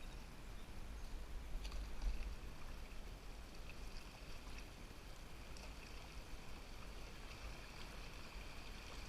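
River water running past a canoe in the current, with a steady low rumble and a few faint knocks.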